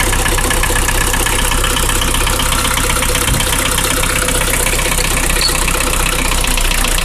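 Nissan CD17 four-cylinder diesel idling with a steady, rhythmic knock, which the owner traces to the fourth cylinder, whose piston was found badly worn and scored. The knock remains even with the valve clearances on that cylinder opened up by half a millimetre.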